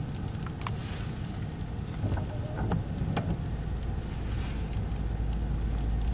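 Low rumble inside a car cabin, growing stronger about halfway through, with scattered ticks of rain hitting the windshield and roof.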